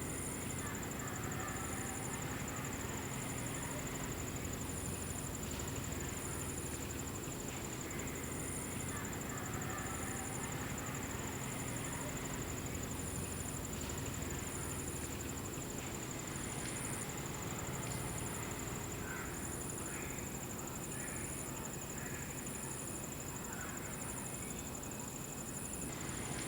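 Outdoor natural ambience of insects: one high, continuous trill, and a second high chirp repeating at a regular beat about every one and a half to two seconds, over a steady background hiss.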